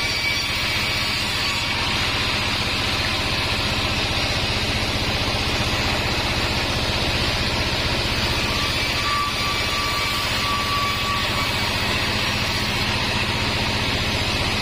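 Band sawmill running steadily, a constant machine drone with a hum underneath, and a faint higher whine for a couple of seconds around the middle.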